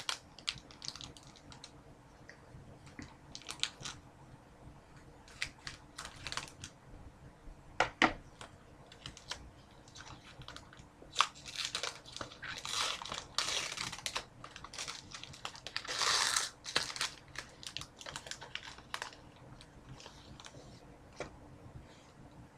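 Trading-card pack being opened and its cards handled: scattered light clicks and taps of cards, with two stretches of wrapper crinkling in the second half.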